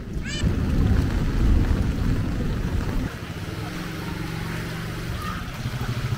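Heavy rain with wind buffeting the microphone as a low rumble. A vehicle engine runs steadily from about three seconds in, and there is a brief high squeak just after the start.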